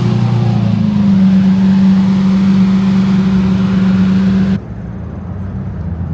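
A car engine running loud: its pitch steps up about a second in and holds steady at high revs, then cuts off abruptly to a quieter, lower engine sound about four and a half seconds in.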